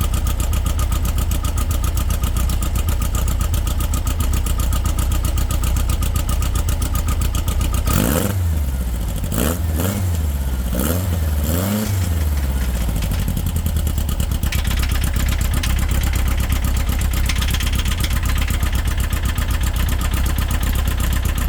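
Freshly built Volkswagen engine running on its first start, idling steadily, then revved up and back down three or four times in quick succession about eight seconds in before settling back to a steady idle.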